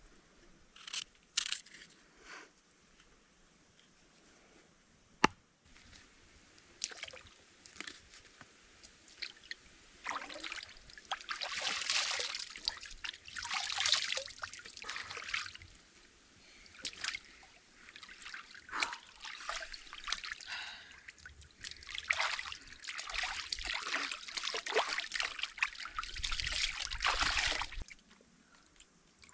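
Water trickling and sloshing in irregular bursts, after a few light knocks and one sharp click about five seconds in.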